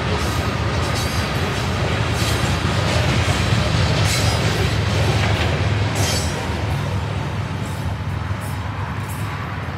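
Loaded rock hopper cars of a freight train rolling past, with a heavy rumble and wheels clicking over the rails. The sound grows quieter over the last few seconds as the end of the train moves away.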